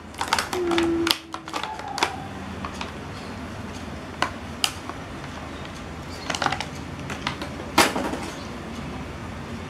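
Hard plastic toy robot parts clicking and clattering against each other and a plastic tray as they are handled: scattered, irregular sharp clicks, the loudest about eight seconds in.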